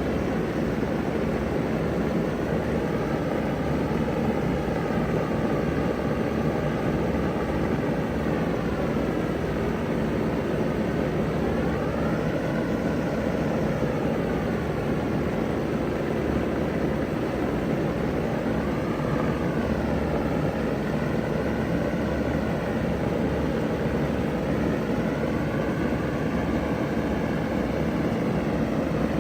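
Vintage ZoneAire wall-hung heat pump running steadily in cool mode: an even fan rush with a faint steady low hum underneath.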